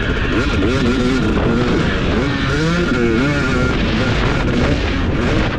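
Husqvarna TC250 motocross bike engine being ridden hard, its revs rising and falling again and again with the throttle and gear changes, over a steady rush of noise.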